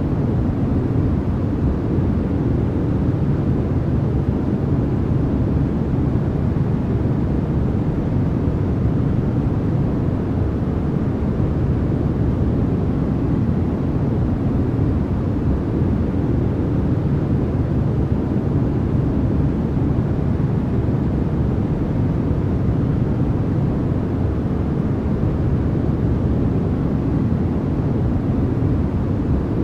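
Continuous noise for sleep, sold as white noise: an even, unbroken deep rush with most of its weight low and only a little hiss up top.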